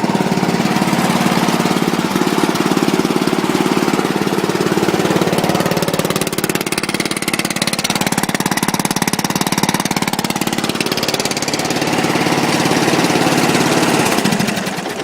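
A 14 horsepower Briggs & Stratton lawn tractor engine with a modified exhaust running steadily and loud, with a rapid chattering firing beat. It is shut off near the end and dies away.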